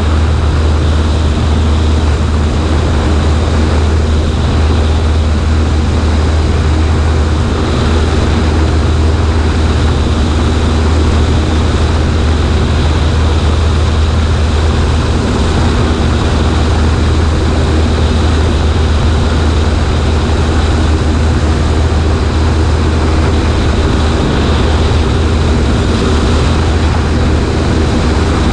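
Cessna 140A's engine and propeller droning steadily, heard from the right wing with wind rushing over the microphone.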